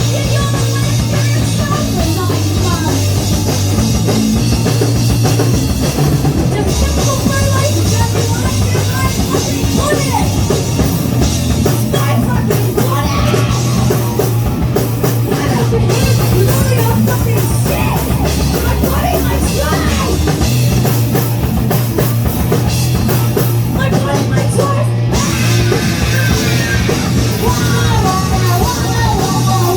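Punk band playing live and loud: drum kit pounding under a steady bass line and distorted guitar, with no vocals.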